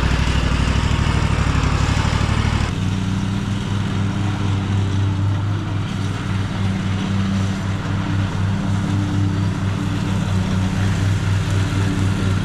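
An engine running; its note changes abruptly about three seconds in and then runs steadily.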